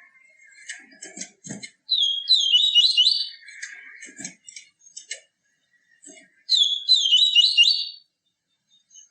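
Papa-capim seedeater singing: two quick, high twittering song phrases of about a second and a half each, the first about two seconds in and the second past the middle, with short clicks in between.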